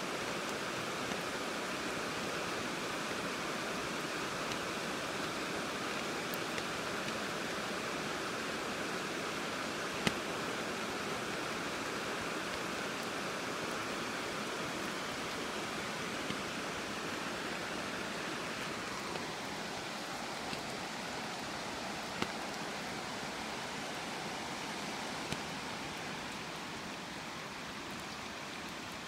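Steady rain falling, with a few sharp taps here and there, the loudest about ten seconds in.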